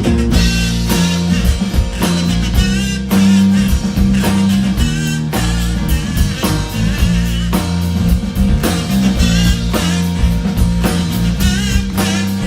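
Live rock trio playing an instrumental intro: guitar lines with bends over a steady electric bass line and drum kit.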